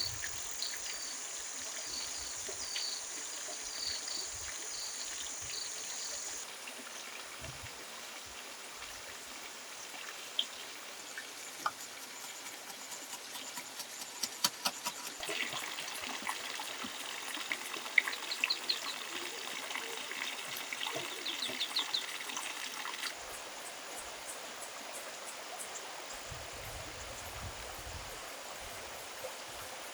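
Water trickling steadily, with high repeated chirping in the first few seconds and again from about halfway to three quarters through. Scattered sharp clicks and taps come through the middle.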